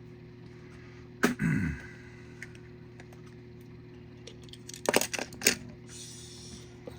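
Hard little clicks and clacks of die-cast toy cars being handled and set down: a sharp knock about a second in, then a quick run of clicks around five seconds in, over a steady low hum.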